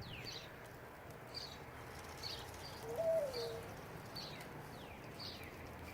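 A bird calling about once a second with short, high, falling chirps, and one louder, lower cooing note about three seconds in that rises, holds and falls back.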